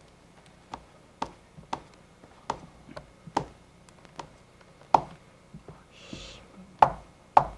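A series of sharp taps or knocks, about a dozen at uneven intervals of half a second to a second, louder toward the end, with a short hiss about six seconds in.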